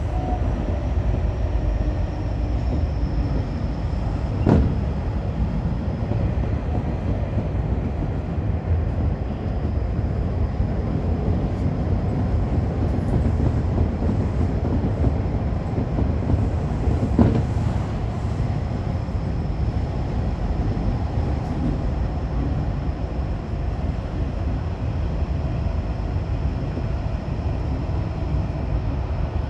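Commuter train running at speed, heard from inside the car: a steady rumble of wheels on rails with a faint high whine, and two sharp knocks, one about four seconds in and another about seventeen seconds in.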